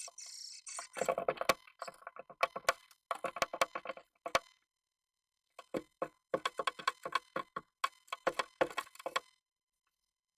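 Japanese tit moving about inside a wooden nest box: bursts of rapid tapping and scratching against the wood, in several clusters with short pauses between, after a brief rustle at the start.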